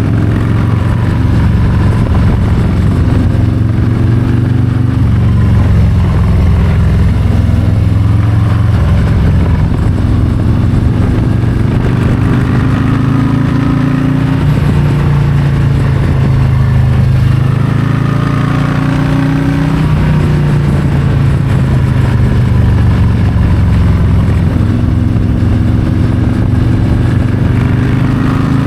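Harley-Davidson Low Rider ST's Milwaukee-Eight 117 V-twin running under way, its pitch repeatedly rising and falling as the revs climb and drop, with a deep dip about sixteen seconds in.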